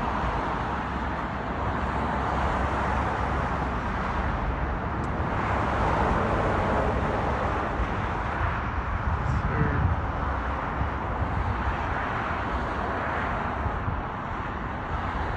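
Steady outdoor background noise: a low rumble of road traffic.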